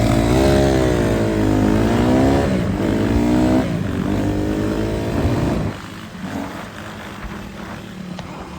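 Honda CRF150R dirt bike engine revving up and down several times, with a short break about three and a half seconds in. About two-thirds of the way through, the engine sound drops sharply to a much quieter low running.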